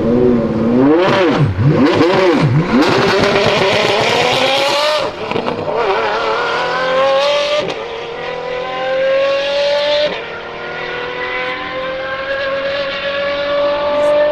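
Apollo IE's straight-piped, naturally aspirated V12 revved sharply up and down three times, then accelerating at full throttle. Its pitch climbs through the gears with three quick upshifts.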